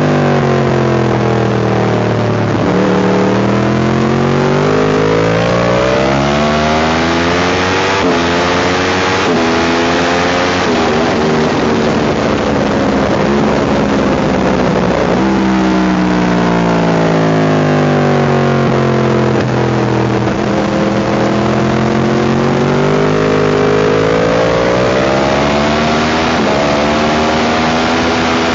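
Sport motorcycle engine accelerating hard, its pitch climbing and dropping sharply at each upshift. Around the middle it winds down in a long falling pitch as the bike slows, then climbs through the gears again, with heavy wind rush over the onboard microphone throughout.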